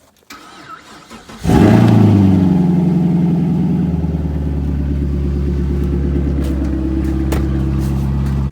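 A Pontiac GTO's engine starting: it fires about a second and a half in with a brief rev flare, then settles into a steady idle until it cuts off suddenly.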